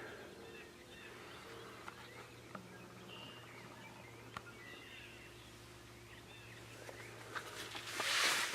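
Outdoor spring ambience with small birds chirping here and there over a faint steady low hum, and a few light ticks. Near the end comes a brief rush of noise, the loudest sound.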